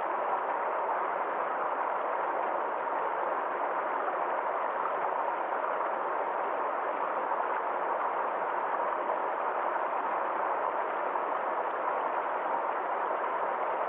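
Forest stream running over a small waterfall: a steady, even rush of flowing water with no breaks.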